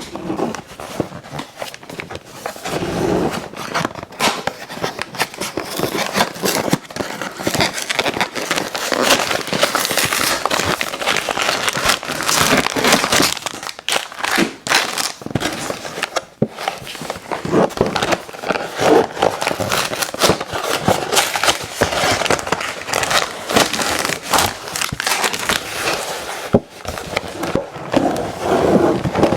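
Close-miked eating sounds: continuous chewing with dense crackly, crinkling mouth noises.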